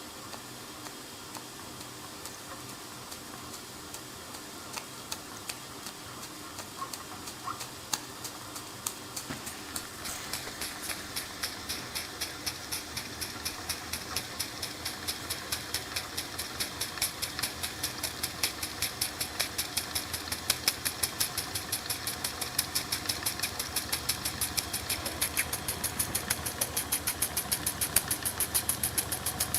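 Bing toy live-steam engine starting to run: a few irregular exhaust puffs at first, then from about ten seconds in a regular chuffing that grows louder and quicker as the engine gathers speed, over a steady steam hiss.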